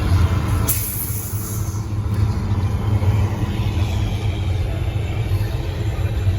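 Steady low engine rumble, with a short hiss about a second in.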